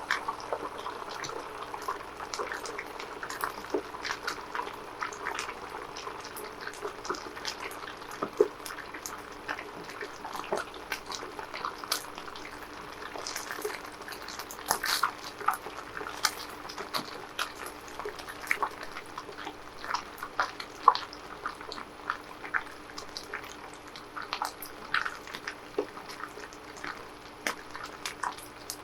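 Chicken nuggets deep-frying in hot oil: a steady sizzle with many irregular small pops and crackles.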